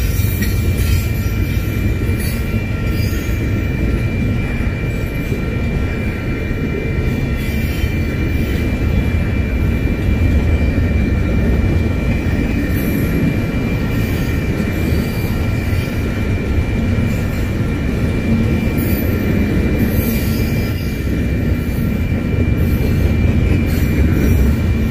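Double-stack intermodal freight train's well cars rolling past, a loud steady low rumble of steel wheels on rail with a thin steady high whine above it.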